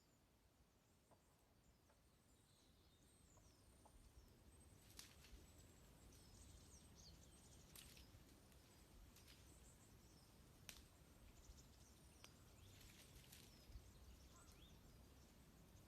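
Small birds chirping faintly with short high calls, while a wood fire gives an occasional sharp crackle, about five pops in all.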